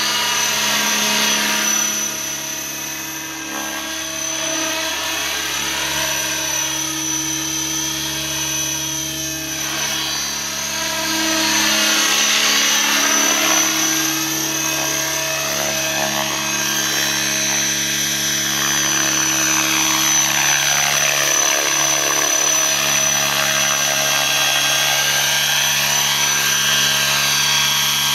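Align T-Rex 600 radio-controlled helicopter in flight: a steady high whine from motor, gears and rotors over several held tones, the sound sweeping and shifting as it manoeuvres, and louder from about halfway through as it comes closer.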